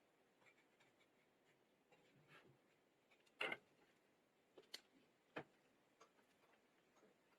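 Faint scattered clicks and taps of small objects being handled, with a few louder sharp clicks in the middle.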